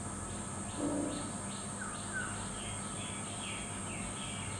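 A bird calling in a quick series of short descending notes, about three a second, over a steady high insect drone. A brief low sound comes about a second in.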